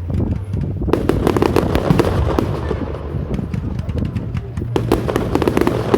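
Fireworks display finale: rapid crackling and popping of many shells bursting over a steady low rumble, thickening about a second in.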